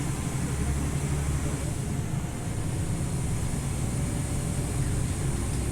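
Scania OmniLink city bus running steadily, its low engine and drivetrain rumble heard from inside the passenger cabin.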